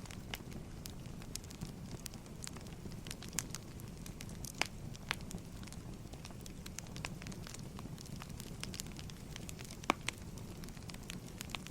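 Wood fire crackling: irregular sharp pops and snaps over a low steady rumble, with one louder pop about ten seconds in.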